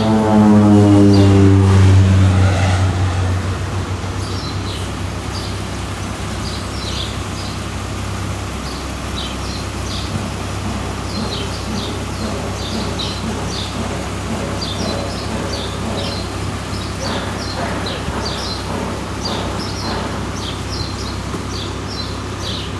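A passing vehicle's engine falls in pitch over the first few seconds as it goes by. Then a steady low hum continues under birds chirping over and over in short high calls.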